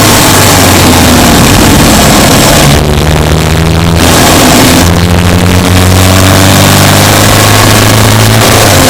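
Subaru Impreza Sport's flat-four boxer engine running under way, loud and steady, with the noise easing briefly twice, around three and five seconds in.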